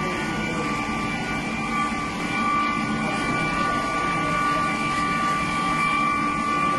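Steady machine roar with a few constant whining tones and no strikes, the sound of heavy industrial equipment running in the bell foundry.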